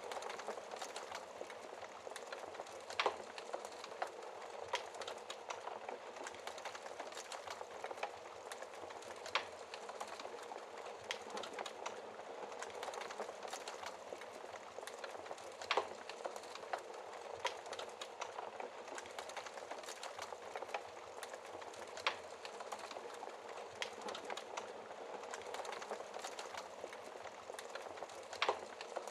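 Wood fire crackling in a fireplace: a steady dense crackle with a louder sharp pop every few seconds.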